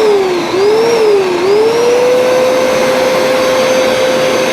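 Hoover SmartWash carpet cleaner running over a steady rush of suction noise. Its motor whine swells and dips in pitch about once a second, then settles into a steady whine about two seconds in.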